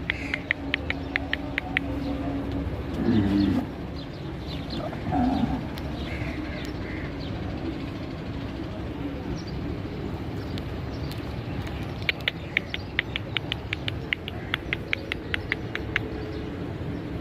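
Birds chirping in quick runs of about five chirps a second, twice, over a steady low hum. Two short louder calls come a few seconds in.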